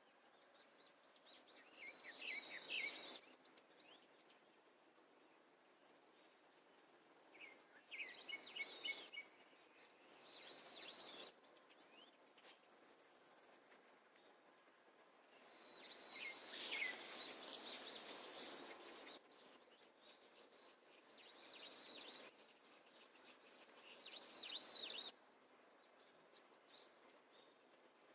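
Birds singing faintly, in short chirping and trilling phrases that come every few seconds, with a longer, fuller stretch about halfway through.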